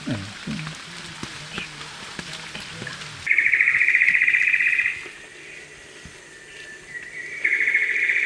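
Rain falling, then, after a sudden change, two loud, rapidly pulsed buzzing trills from a calling animal, each lasting under two seconds and a few seconds apart.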